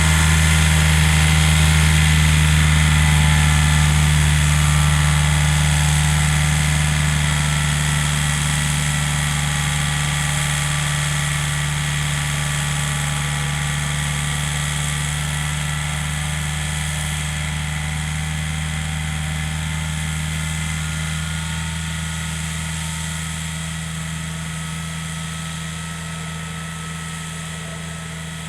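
Diesel tractor engine running steadily with a deep, even hum, gradually growing quieter.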